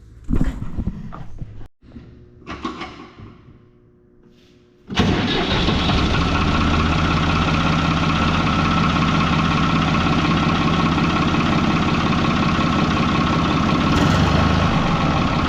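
Farm tractor engine catching about five seconds in and then running steadily. It starts promptly now that dirty battery cable connections, the cause of its hard starting, have been cleaned. Before it catches there are two short bursts of sound.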